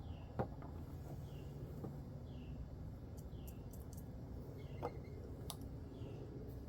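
A bird repeating a short falling call about every two-thirds of a second over steady low background noise, with a few sharp clicks and taps, the loudest about half a second in and another near the end.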